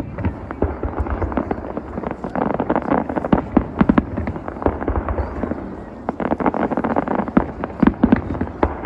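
Fireworks display: a dense, continuous run of bangs and crackling from bursting shells, easing briefly a little past the middle before picking up again.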